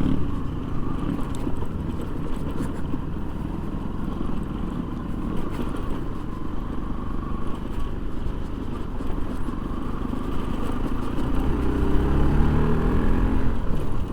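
Motorcycle engine running while riding, a steady low rumble; the engine note climbs near the end.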